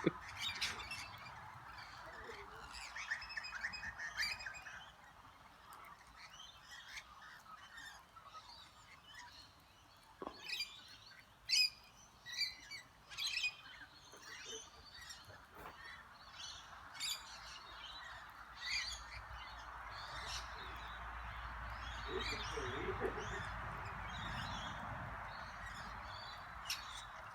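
Lorikeets and other birds calling at a feeding spot: many short, sharp chirps and squawks scattered throughout, over a steady background hiss that grows louder in the second half.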